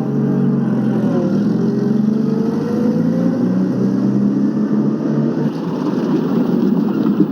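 Taxi engine running as the cab drives, its pitch rising about a second in as it picks up speed.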